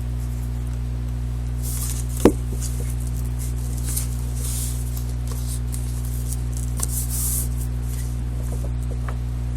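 Paper handled and a glue stick rubbed across it in a few soft swishing strokes, with one sharp click about two seconds in, over a steady low hum.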